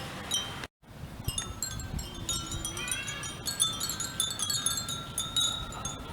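Many furin, Japanese wind bells, tinkling in the wind. The strikes overlap into a dense, ringing jingle that builds through the second half, after a brief break in the sound just under a second in.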